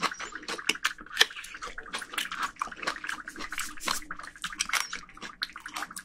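Close-miked chewing of a juicy plum: a dense run of wet clicks and squelches.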